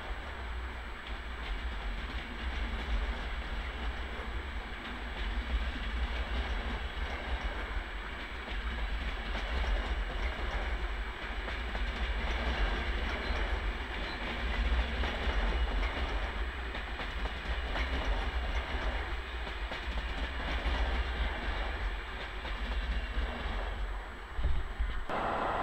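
Yellow RegioJet passenger coaches rolling past on the rails in a steady, noisy rumble, until the last coach clears near the end and the sound cuts off abruptly.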